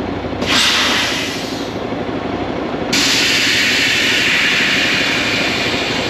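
Semi truck's diesel engine idling, with hisses of air: a short one about half a second in and a longer, louder one that starts suddenly about three seconds in and keeps going.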